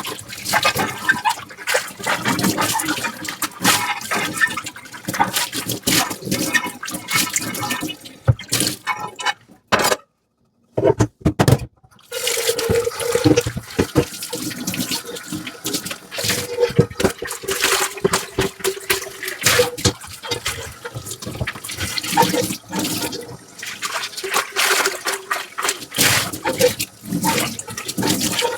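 Dishes being washed by hand at a sink: running, splashing water with frequent clinks and knocks of dishes. The sound drops out to silence for about two seconds around ten seconds in.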